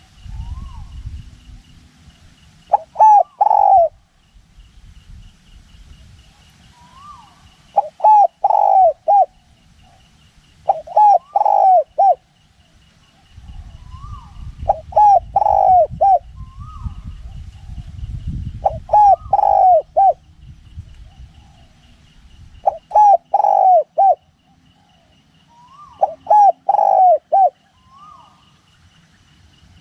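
Spotted dove cooing, a phrase of several coos repeated about every four seconds, with gusts of wind rumbling on the microphone at the start and through the middle.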